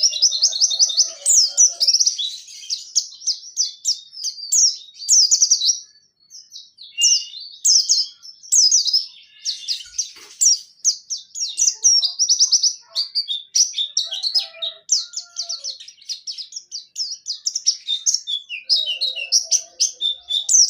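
Pleci dakun white-eye singing in long, continuous runs (ngerol) of rapid, high trills and sharp chirps (nembak). The song breaks only briefly, about six seconds in.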